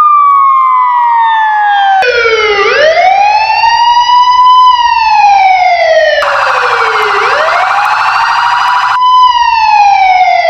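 Police siren wailing, its pitch sweeping slowly down and up in long rises and falls of a few seconds each, with a sudden jump about two seconds in. A second, buzzier layer joins between about six and nine seconds in.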